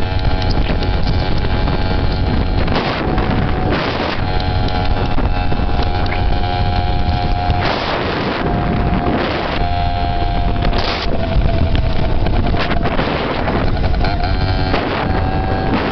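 Dirt bike engine running steadily under way, its pitch easing down a little about two-thirds of the way through, with repeated gusts of wind buffeting the microphone.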